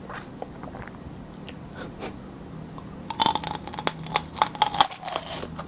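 Raw mini sweet peppers being bitten and chewed close to the microphone: a few faint mouth clicks at first, then loud, crisp, rapid crunches from about three seconds in.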